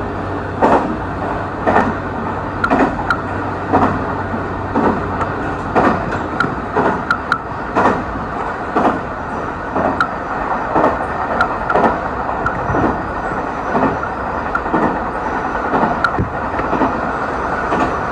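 Cabin running noise of a JR Kyushu YC1 hybrid diesel railcar at speed: a steady rumble with regular clicks of the wheels over rail joints, about one a second. A low hum fades out about six seconds in.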